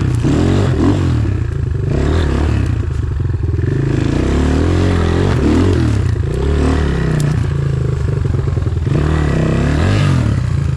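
Enduro motorcycle engine revving up and down again and again under load as the bike is ridden through an obstacle.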